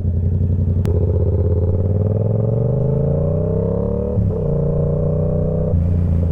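Motorcycle engine pulling away, its revs rising steadily for a few seconds, dipping briefly about four seconds in, then running steady.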